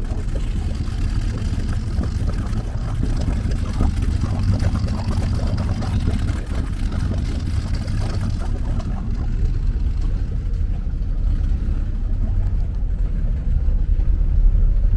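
Twin Crusader 454 big-block V8 inboard engines running, heard from outside as a steady low rumble. The sound is muted by silent sailor exhausts, which divert most of it below the waterline.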